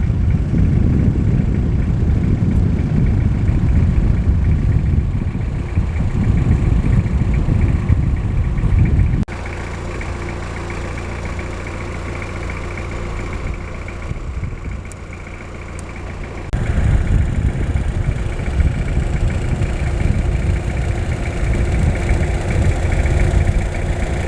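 Car driving, its engine and road rumble heard from inside. The rumble drops abruptly to a quieter, steadier hum about nine seconds in and comes back just as suddenly about seven seconds later.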